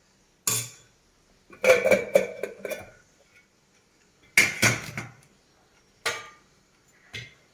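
Dishes and cutlery clinking and clattering as food is served: a single knock, then two short runs of clatter, then two more single clinks near the end.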